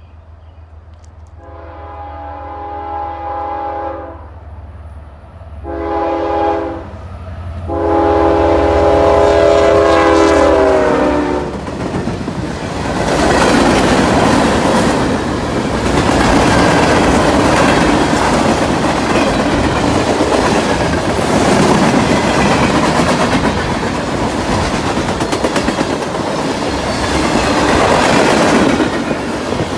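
CSX ES44AH diesel locomotive's air horn sounding three blasts, two longer ones around a short one, its pitch dropping at the end of the last blast as the engine goes by. Then the freight cars roll past with a steady wheel rumble and clickety-clack on the rail joints.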